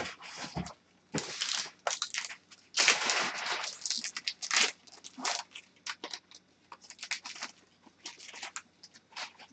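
Trading cards and their wrappers being handled: irregular rustling, sliding and crinkling, with a few short clicks.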